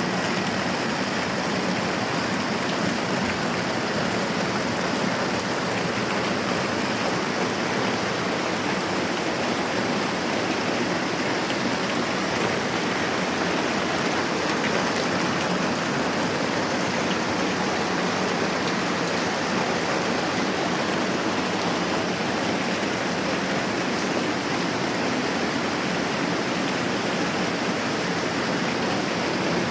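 Steady moderate rainfall, an even unbroken hiss.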